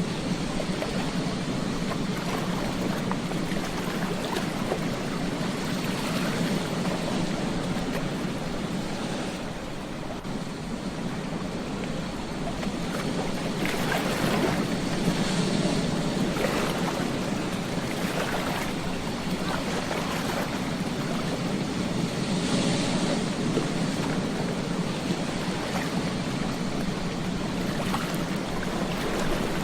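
Ocean waves washing onto a beach: a continuous rush of surf that eases briefly about ten seconds in, then swells again.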